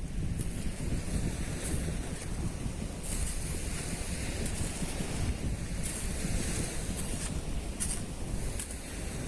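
Wind buffeting the microphone over the wash of sea waves, a steady low rumble with a hiss above it.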